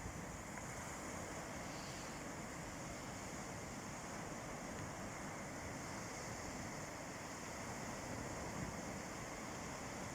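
Sea waves washing steadily on a beach, an even rushing hiss with no distinct breakers standing out.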